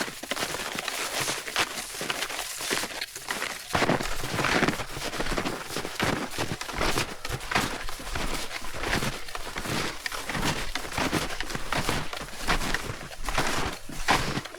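Snowshoe footsteps crunching on snow in a steady walking rhythm, about one and a half steps a second.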